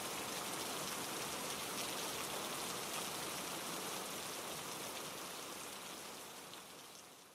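Steady rain pattering on leaves and rocks over a cascading mountain stream, fading out gradually over the last few seconds.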